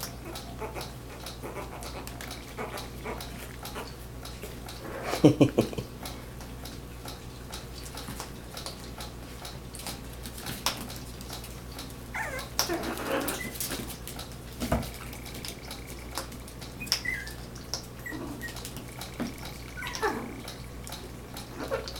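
Yorkshire Terrier puppies playing, giving small yips and whimpers, with a quick run of yaps about five seconds in as the loudest sound.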